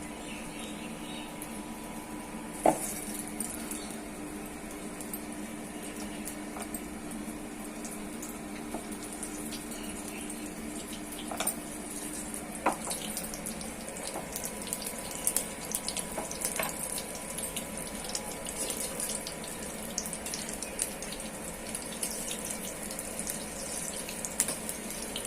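Chilli bajji fritters deep-frying in hot oil: a steady sizzle full of small crackles, with a sharp knock about 3 s in and another about 13 s in. A low steady hum underneath stops about halfway.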